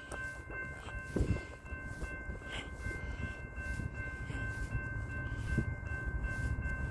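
Approaching BNSF double-stack freight train led by SD70ACe locomotives: a low rumble that grows louder toward the end, with faint steady high tones throughout.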